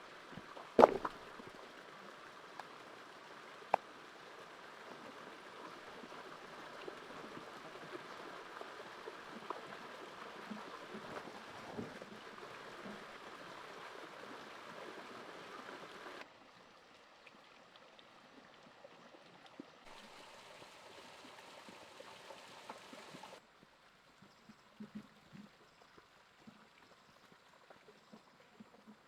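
Steady rushing of running water, with a sharp knock about a second in and another a few seconds later. The water noise drops suddenly in the second half, comes back briefly and drops again, leaving only faint scattered knocks.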